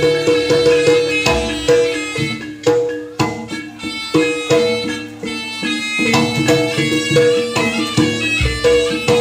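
Live jaranan (kuda kepang) gamelan-style folk music: a reedy wind instrument holds sustained notes over hand-drum strokes and struck percussion in a steady rhythm.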